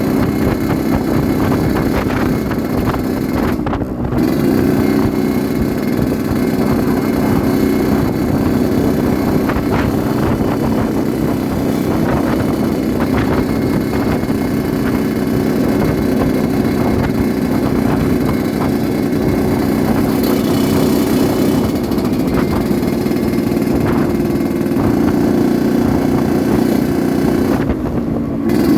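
Yamaha RX-King 135 two-stroke single-cylinder motorcycle engine running steadily under way. The throttle eases off briefly twice, about four seconds in and again near the end.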